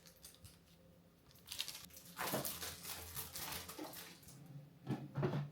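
Light handling noises: soft taps and rustles starting about a second and a half in, with a brief louder sound near the end.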